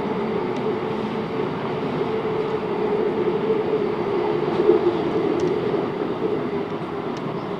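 Class 707 Desiro electric multiple unit running on the line, a steady rolling rumble with a humming tone that sags slightly in pitch partway through, and a few faint ticks.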